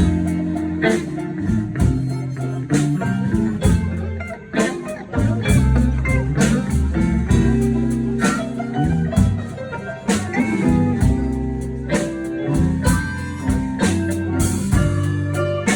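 Blues instrumental passage with no vocals: guitar over bass and drums, at a steady beat.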